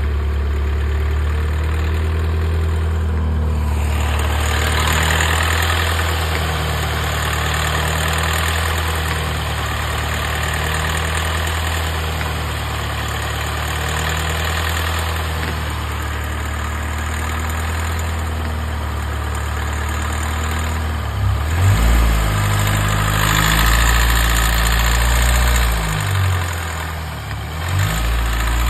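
BMW N13 1.6-litre turbocharged four-cylinder engine idling with a rattle, which the owner suspects comes from the VANOS, since the timing chain, guides, tensioner and oil are all new.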